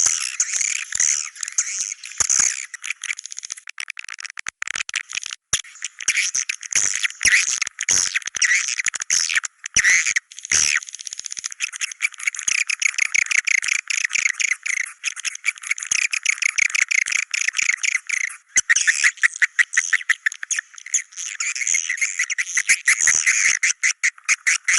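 Swiftlets calling: a dense, continuous chatter of rapid high chirps and twitters, with short clicks mixed through it.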